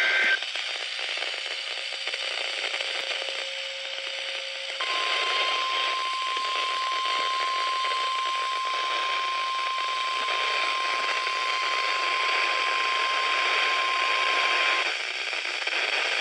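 NOAA Weather Radio warning alarm tone: one steady high tone of about 1050 Hz, held for about ten seconds and cutting off abruptly, heard through a radio receiver with scratchy static hiss. The tone signals that a tornado warning is about to be read. A few seconds of hiss with a faint lower tone come before it.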